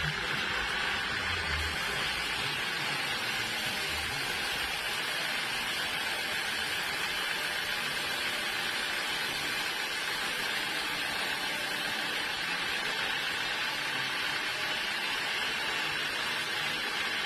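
Sawmill machinery running steadily with an even, hissing noise, with a few low thuds in the first few seconds.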